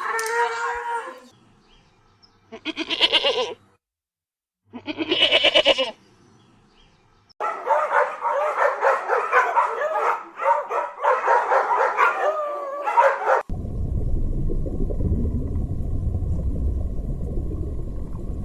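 A string of different animal calls, one after another: the end of one call, two short wavering calls, then several seconds of many overlapping calls. These give way a little past the midpoint to a steady low rumbling noise.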